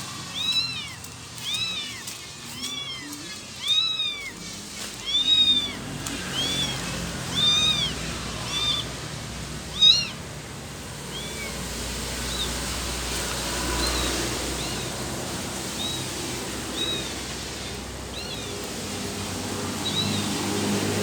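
Stray kittens meowing over and over in short, high calls about once a second, loudest through the first ten seconds and then fainter and sparser. A low rumble swells briefly in the middle.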